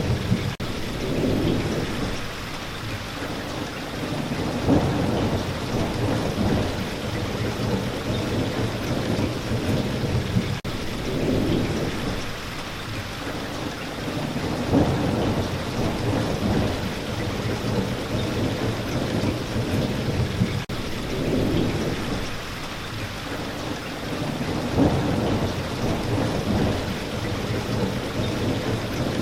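Steady rain falling, with a low rumble that swells and fades about every ten seconds.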